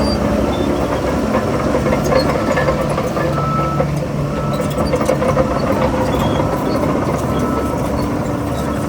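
Heavy earthmoving machinery's diesel engine running steadily under work, with frequent metallic clanks and rattles and a few brief high squeals.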